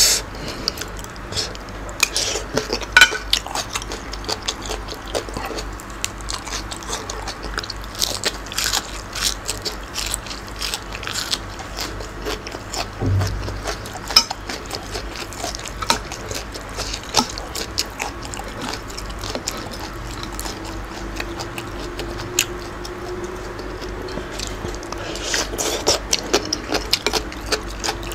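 Close-up chewing and crunching of raw vegetables and baby squid from a spicy Thai salad, with wet mouth sounds and irregular clicks.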